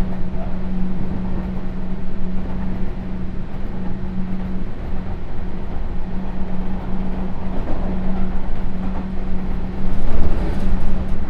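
Sotetsu New 7000 series electric train running, heard from inside the car: steady wheel-and-rail rumble with a constant hum, swelling to a louder rush about ten seconds in.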